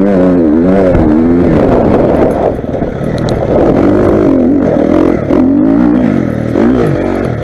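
Motocross motorcycle engine revving hard, its pitch rising and falling again and again as the throttle is worked through the track's jumps and turns.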